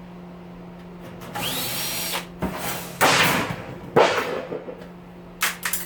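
Cordless drill-driver running in a short burst about a second and a half in, its whine rising as it spins up while backing out the oven's screws, followed by clatter of sheet metal around the three- and four-second marks and a couple of sharp clicks near the end. A steady low hum runs underneath.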